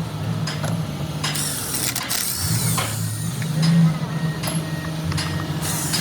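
An engine running steadily with a low hum, overlaid with scattered metallic clicks and several short bursts of hiss.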